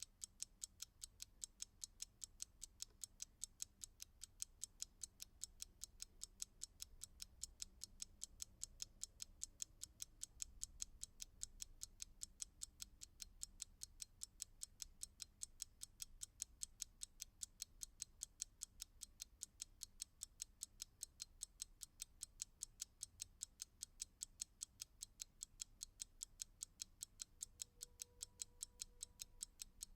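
Clock ticking at a steady, even pace, several sharp ticks a second.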